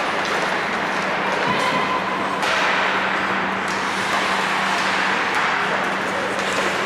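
Ice hockey play in a rink: skates scraping on the ice with a few sharp clacks of sticks and puck, over a steady low hum.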